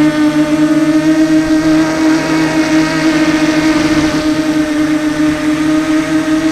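Brushless motors of a 250-size FPV quadcopter whining at a steady pitch, heard from the onboard camera, with a rough, gritty undertone from a Sunnysky 2204 motor whose bearing has shelled out.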